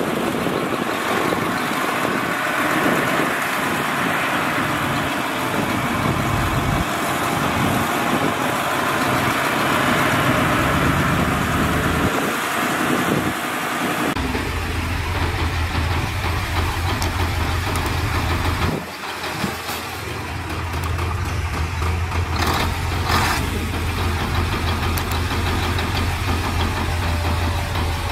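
Heavy diesel machinery engines running. About halfway through the sound changes to a steady low engine drone.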